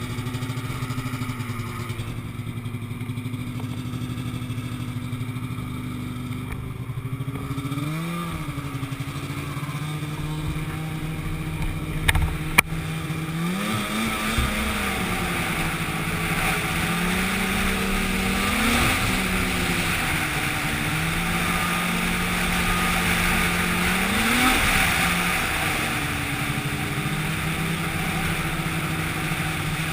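An engine running steadily, its pitch briefly rising and falling back about every five seconds, with a rushing noise building up alongside it from about halfway through. A couple of sharp clicks come a little before the halfway point.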